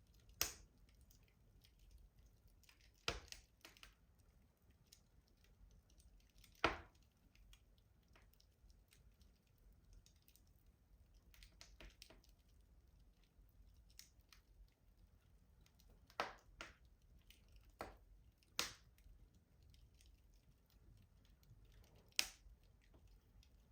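Wood fire crackling in a rustic stove: a handful of sharp pops a few seconds apart over faint, soft crackling.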